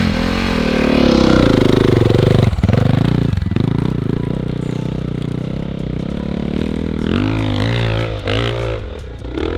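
Dirt bike engine running under throttle, revving up and dropping off sharply twice a few seconds in, then rising and falling in several quick blips near the end.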